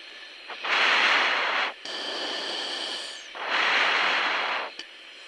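Two heavy breaths, about a second each, drawn through a fighter pilot's oxygen mask and heard over the intercom, over a steady cockpit hiss.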